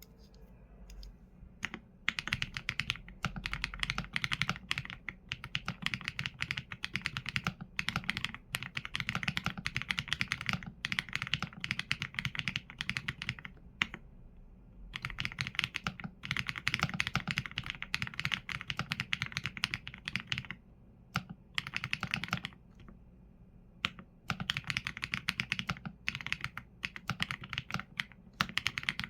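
Continuous typing on a Qsenn A75 mechanical keyboard with Leobog Graywood V4 linear switches and PBT keycaps: rapid runs of keystrokes, broken by short pauses, the longest about halfway through.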